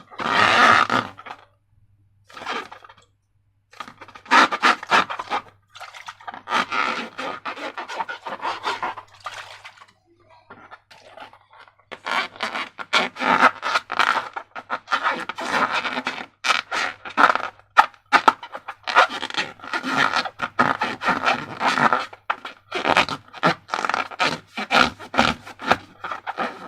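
Slime being worked by hand, squished and stirred, making sticky crackling and scraping sounds in quick clicks, with a couple of short pauses.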